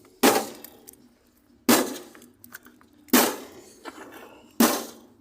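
Metal clanking against metal: four sharp strikes about a second and a half apart, each ringing briefly.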